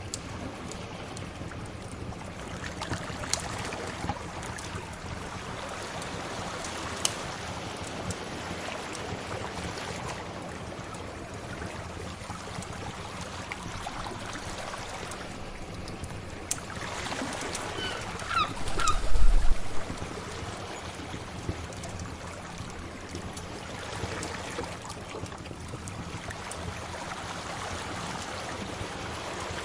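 Sea waves washing in and out, a steady hiss that swells and eases every several seconds, with a wood fire giving sharp crackling pops now and then. About two-thirds of the way through comes the loudest moment: a brief burst with a deep thud and a few short chirps.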